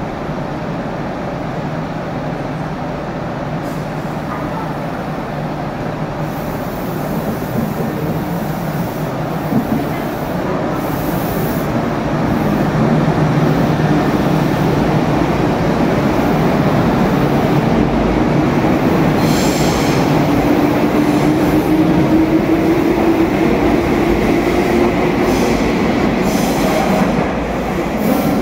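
Meitetsu electric train running along an underground station platform: wheels rumbling on the rails, with a motor whine rising steadily in pitch as the train picks up speed. The sound grows louder about halfway through.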